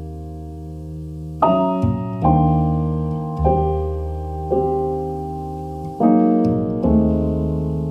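Background piano music: chords struck about once a second, each ringing on and fading before the next.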